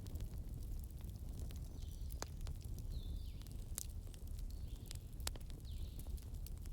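Fireplace crackling: scattered sharp pops and clicks over a steady low rumble, with a faint high chirp falling in pitch repeating about once a second.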